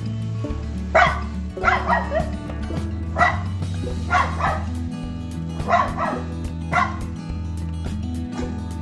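Dog barking: about nine short barks, some singly and some in quick pairs, over a steady background music track.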